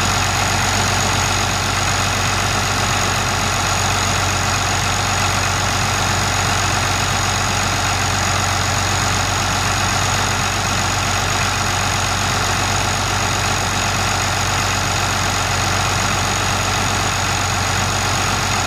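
International 86 high-clearance tractor engine idling steadily, with an even low hum and a faint thin high whine.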